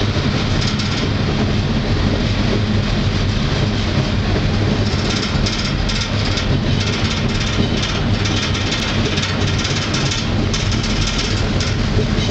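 Canadian Pacific freight train rolling, heard from aboard a freight car: a steady, loud rumble and rattle of the car and wheels on the track.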